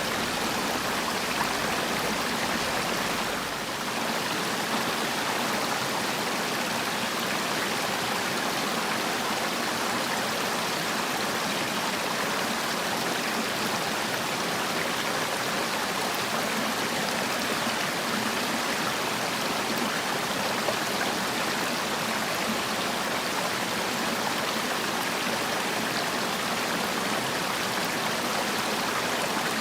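Mountain valley stream rushing steadily over rocks, an even wash of flowing water, dipping slightly in level for a moment about three and a half seconds in.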